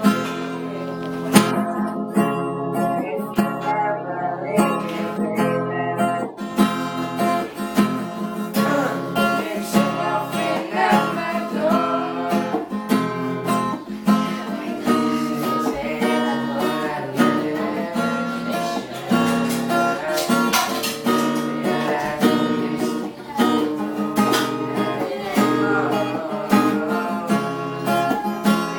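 Acoustic guitar strummed as song accompaniment, the playing growing fuller after about six seconds.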